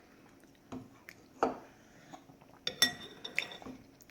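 Spoon clinking against a soup bowl: a few light taps, then a sharper ringing clink about three seconds in.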